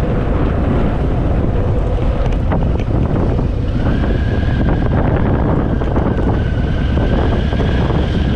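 Wind rushing over the microphone of a moving Harley-Davidson Fat Boy, over the steady low rumble of its V-twin engine. A steady high whistle joins about four seconds in.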